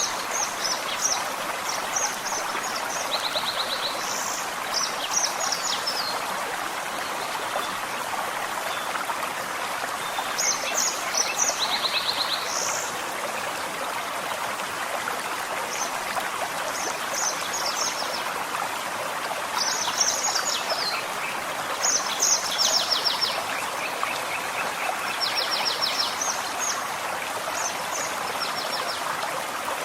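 A gentle forest stream running steadily, with songbirds singing at intervals over it: short phrases of quick, high chirps and trills that come and go every few seconds.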